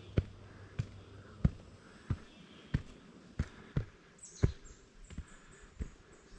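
A hiker's footsteps walking at a steady pace, a thud roughly every two-thirds of a second.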